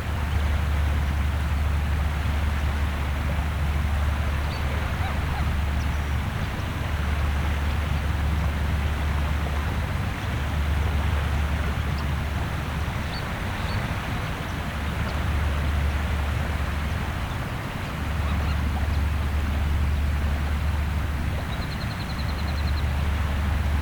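Gentle waves washing on the shore, with a strong, steady low wind rumble on the microphone that drops out briefly a few times. Faint short shorebird calls sound now and then, with a quick run of chirps near the end.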